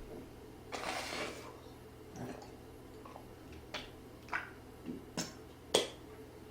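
Eating sounds: a short noisy rush about a second in, then a run of sharp clicks and knocks of utensils against a bowl, the last one the loudest.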